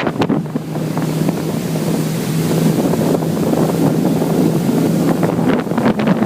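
Steady engine drone with a constant low hum, and wind buffeting the microphone.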